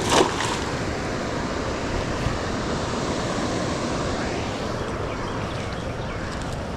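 Steady rush of falling water from a waterfall, with a brief louder burst of noise right at the start.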